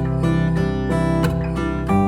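Gentle acoustic guitar music, strummed and plucked chords changing every half second or so.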